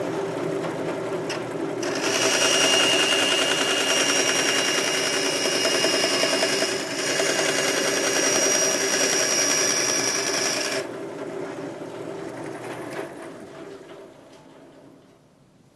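Bandsaw cutting a piece of stock: the machine runs with a steady hum, then from about two seconds in the cutting noise grows louder with a high whine for about nine seconds. After the cut ends the sound fades away gradually.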